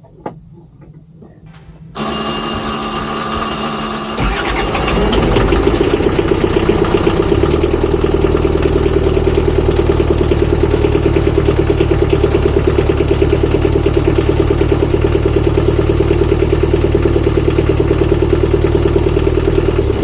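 Sailboat's inboard diesel engine being started: an electric warning buzzer sounds when the key is turned, the starter cranks, the engine catches and the buzzer stops, then it settles into a steady, evenly pulsing idle.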